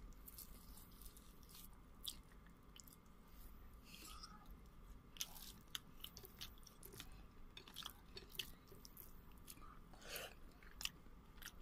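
Faint chewing with scattered small wet mouth clicks and smacks from someone eating chicken and rice by hand.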